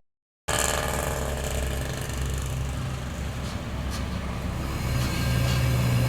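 Half a second of silence, then a heavy diesel truck engine running at low revs under load, a low steady drone that grows a little louder near the end.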